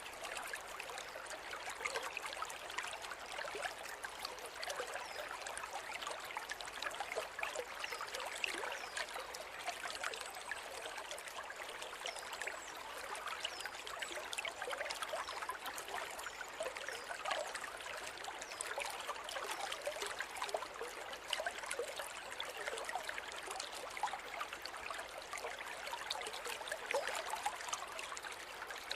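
River flowing steadily: a continuous babble of trickling water with many small splashes, and no lulls.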